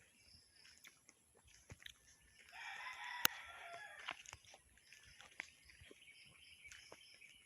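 A rooster crowing once, a single drawn-out call of about a second and a half, with a sharp click partway through it.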